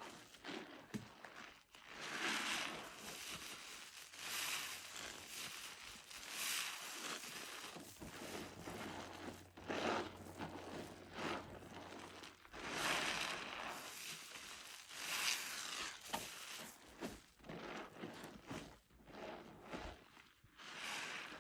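Wet, soap-laden sponge being squeezed and squished over and over, each squeeze a swell of wet lather noise lasting a second or two, about one every two seconds.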